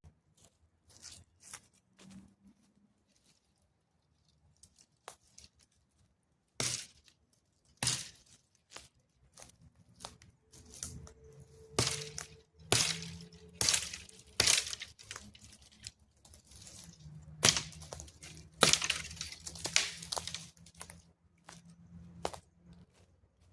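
Dry wood cracking and snapping in irregular sharp cracks, sparse at first, then louder and closer together through the second half.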